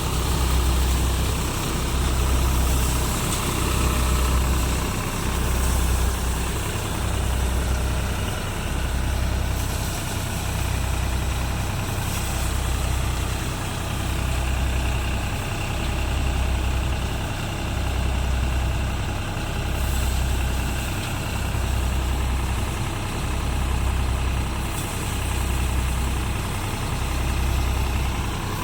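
Deutz-Fahr Agrolux 50 tractor engine running steadily under load, driving a multicrop thresher through mustard, with the thresher's steady noise over it. The engine note swells slowly about every two seconds.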